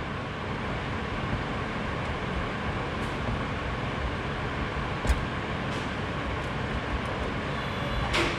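Steady mechanical running noise with a few light clicks and knocks, the sharpest just before the end.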